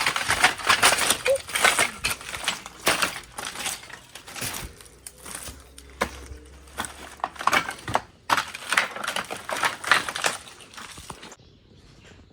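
Footsteps crunching and crackling over scattered debris, irregular and dense, busiest at the start and again near the end, then stopping shortly before the end.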